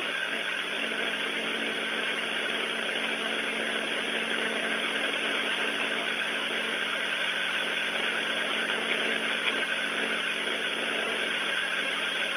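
Steady hum and hiss of the International Space Station's cabin: ventilation fans and equipment running, heard through the station's downlink audio, which has no high end.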